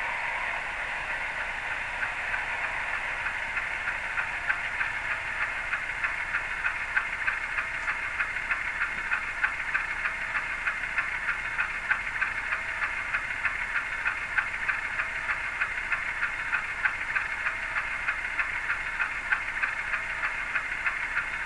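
Sound decoder of an HO-scale GE C30-S7R model diesel locomotive playing its diesel engine running sound through the model's small speaker: a steady, thin-sounding engine note with a fast, even ticking pulse.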